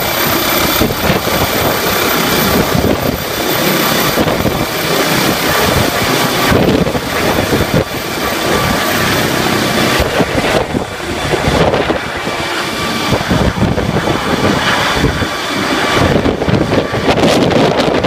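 MD 900 Explorer twin-turbine helicopter running loud, with a steady whine from the turbines under the rotor noise and heavy wind buffeting on the microphone.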